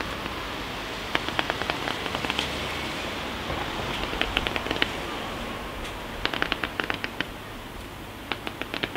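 Fireworks shooting fans of comets into the air: quick volleys of sharp pops, four clusters of several shots each, a couple of seconds apart, over a steady hiss.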